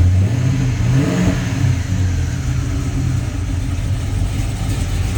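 Supercharged LSA 6.2-litre V8 running with long-tube headers, blipped once about a second in so its pitch rises and then drops back to idle.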